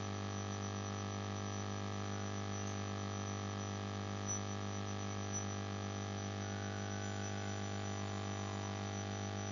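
Steady electrical mains hum with a buzz of many overtones, with two faint ticks around the middle.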